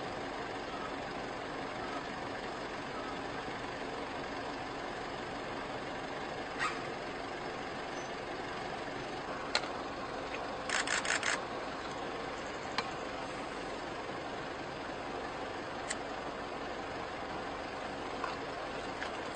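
A vehicle engine running steadily, with a few sharp knocks and a quick run of clicks about halfway through.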